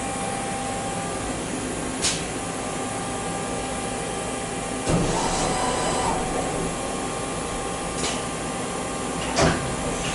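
A metalworking machine tool running steadily with a hum of several constant tones, while a bar is machined. Short metallic knocks come about 2, 5 and 9.5 seconds in, the one near the end the loudest.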